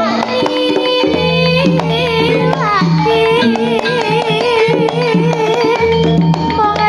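Javanese gamelan gending played live and loud through a sound system. Kendang drum strokes keep a steady rhythm under held bass notes and a wavering, ornamented melody line.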